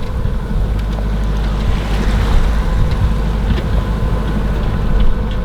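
Wind buffeting the microphone in a heavy low rumble, over the wash of water around a sailboat underway.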